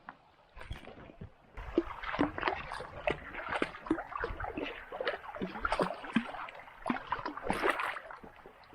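Stones being handled and knocked together in shallow water: an irregular run of clacks and clatters with splashing, busiest from about a second and a half in.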